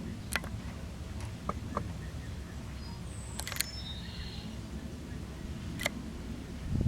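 Outdoor ambience: a steady low wind rumble on the microphone, several sharp clicks of handling on the recording device, and a few brief, faint high chirps a little past halfway.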